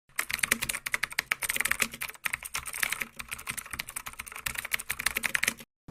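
Rapid computer keyboard typing: a dense run of key clicks with a brief break about two seconds in, stopping just before the end.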